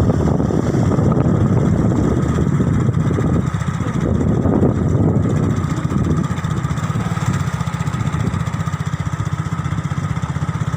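A vehicle's engine running steadily while travelling, its low hum even throughout, with road and wind noise.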